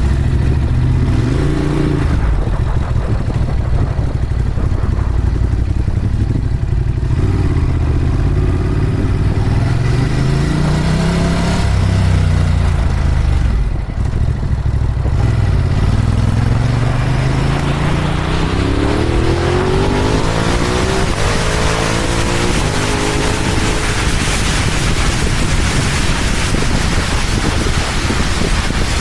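Ducati Monster 821's L-twin engine running as the bike moves off, its pitch rising and falling with the revs. In the second half it climbs in several rising sweeps as it accelerates, with rising wind noise.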